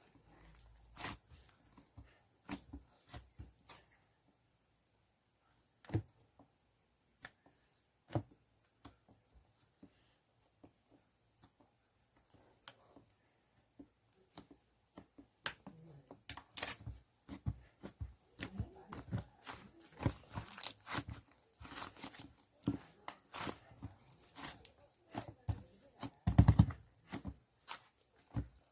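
Toy slime being squished and stretched by hand, making scattered sticky clicks and crackling pops. They come sparsely at first and thicken into a busy run of clicks in the second half.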